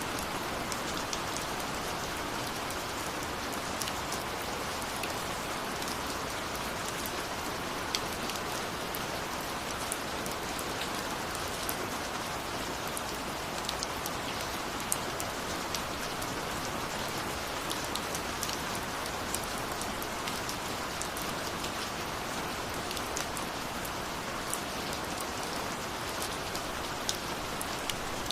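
Steady rain falling, with many individual drops ticking sharply on a hard surface over the constant hiss.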